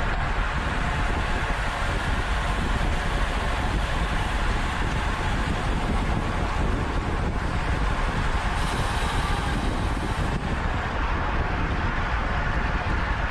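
Steady rush of wind and road noise on an onboard camera's microphone as a road bike is ridden at race speed. A higher hiss joins for about two seconds a little past the middle.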